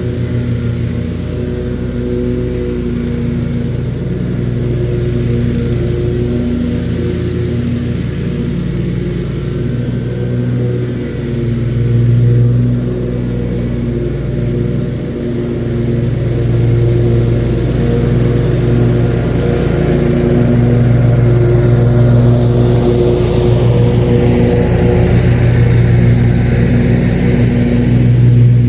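Lawn mower engine running steadily while mowing, getting somewhat louder partway through. A faint whine rises and falls over the last several seconds.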